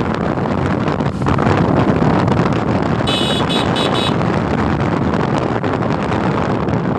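Wind buffeting the microphone over road and motorcycle noise while riding. Just after three seconds in, a high horn beeps in about three quick pulses.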